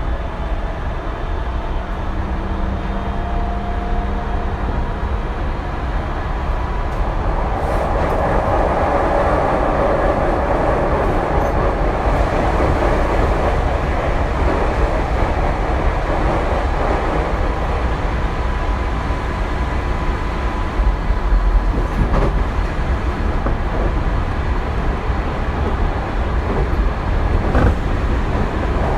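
Tokyu 2020 series electric train running at speed, heard inside the car: a steady rumble of wheels on rail that grows louder about eight seconds in. A few sharp clicks come from the track near the end.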